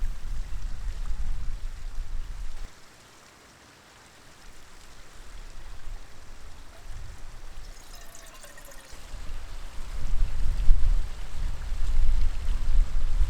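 Gusting wind buffeting the microphone as a low rumble, which cuts out abruptly about three seconds in, stays quieter and hissing for several seconds, then builds again strongly near the end.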